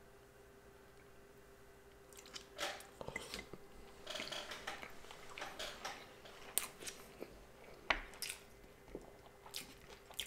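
A person chewing and biting into a California sushi roll, with irregular small clicks and crackles of eating starting about two seconds in.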